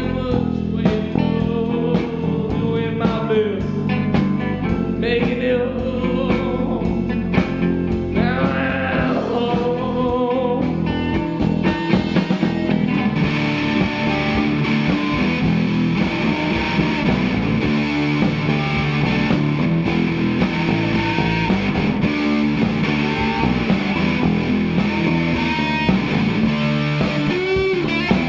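A rock band plays: drums, bass guitar and electric guitar, with a melodic line bending in pitch. About halfway through, the sound gets fuller and brighter.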